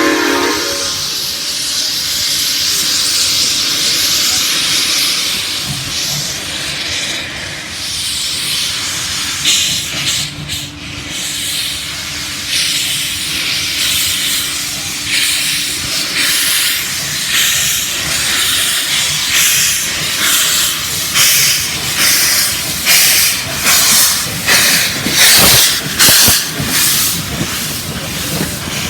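South Australian Railways Rx-class steam locomotives pulling away from a standstill: a loud hiss of steam at first, then exhaust chuffs coming in evenly, about one and a half a second and quickening as the train gathers speed.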